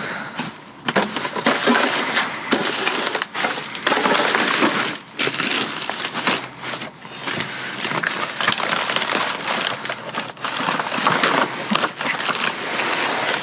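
Continuous crinkling and rustling of plastic bags and packaging being rummaged through by hand, with frequent small knocks and crackles.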